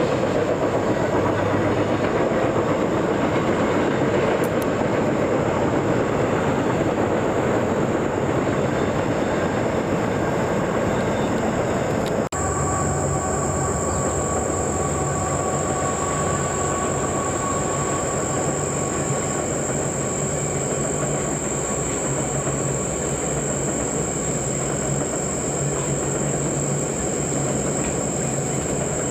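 Train rolling past, with continuous rumble and wheel-on-rail noise. About 12 seconds in the sound cuts abruptly to a steadier rumble with a thin, high steady whine over it.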